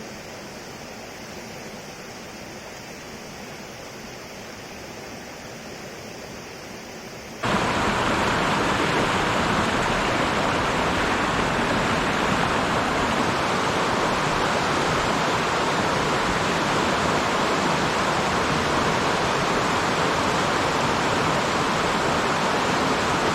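Steady rushing of a mountain stream; about seven seconds in it cuts suddenly to a louder, closer rush of water that then holds steady.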